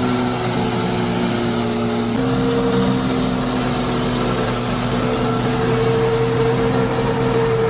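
Small electric motor of a DIY model tractor running with a steady whining hum, its pitch shifting slightly about two seconds in.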